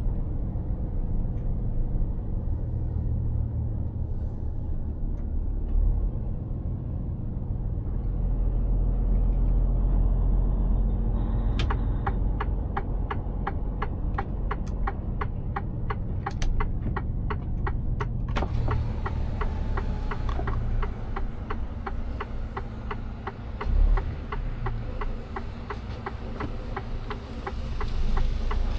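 Mercedes-Benz Actros truck running on the road with a steady low rumble. From about halfway in, a regular fast ticking, about three ticks a second, runs alongside it.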